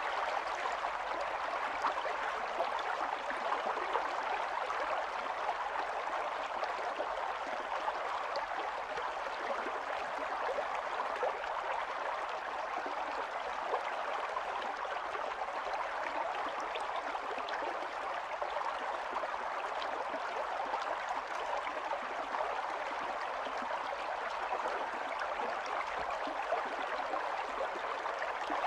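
Stream water running over stones, a steady rushing and babbling with small quick splashes.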